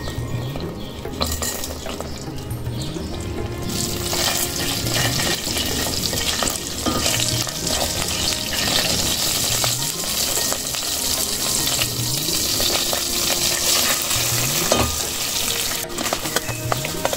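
Food sizzling as it fries in hot oil in a cooking pot, the hiss growing louder about four seconds in and holding steady, with the occasional scrape and clink of stirring.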